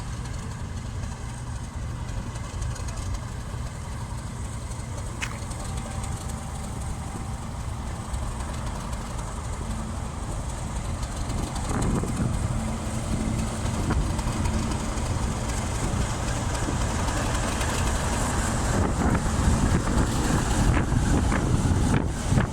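Train running: a steady low rumble that grows louder in the second half.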